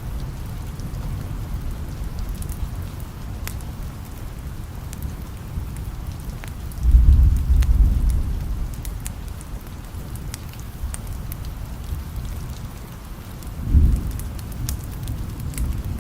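Steady rain with low rolls of thunder: a longer roll about seven seconds in and a shorter one near the end. Scattered sharp ticks sound over the rain.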